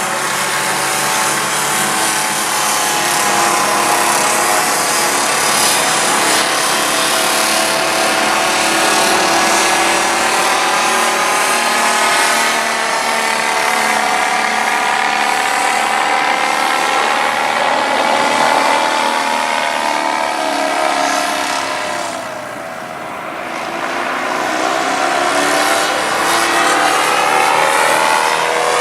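Radio-controlled model aircraft's motor and propeller running in flight, its pitch drifting up and down as it flies past; the sound dips and drops in pitch about three quarters of the way through, then climbs again.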